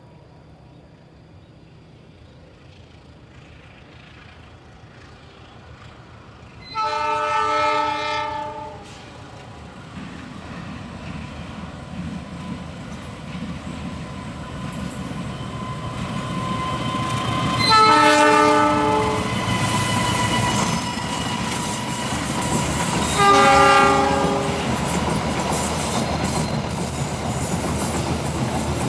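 Indonesian passenger train sounding its horn three times, a chord of several steady tones: a longer blast about seven seconds in, then two shorter ones some ten and fifteen seconds later. Under the horn, the rumble and wheel clatter of the approaching train grow steadily louder.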